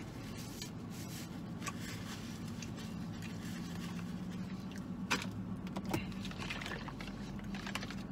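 A man chewing a mouthful of burger, with scattered wet mouth clicks and two sharper clicks about five and six seconds in, over the steady low hum of a car's cabin.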